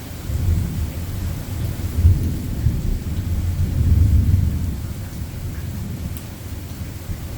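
Thunder rumbling low and rolling for several seconds, loudest around two and four seconds in, then dying back, over steady rain.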